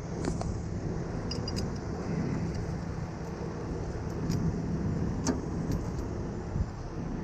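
Heavy truck engine idling steadily, with a few light metallic clicks and clinks over it.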